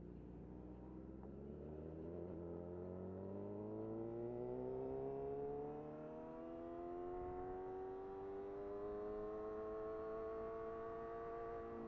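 Motorcycle engine accelerating hard, its pitch climbing steadily for about six seconds and then holding nearly level at high revs.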